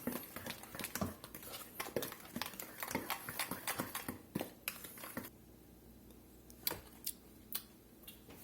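Salt-and-pepper seasoning being shaken from its shaker container into a bowl of flour: a quick, irregular run of small rattling clicks for about five seconds, then three or four isolated taps.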